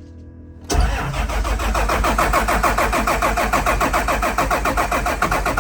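Caterpillar C7 inline-six diesel in a school bus being cranked over by its starter on a cold start, coming in suddenly under a second in as a rapid, even chug of compression strokes.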